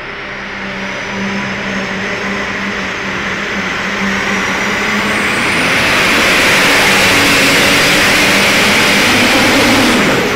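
A pulling vehicle's engine running at full power on a pull, steadily growing louder over the first several seconds and staying loud through the second half.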